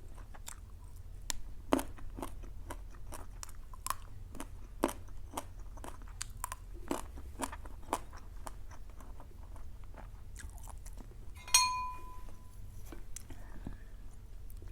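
Close-up chewing and biting of crunchy food, with many short sharp crunches. About three-quarters of the way in comes a single short ringing clink.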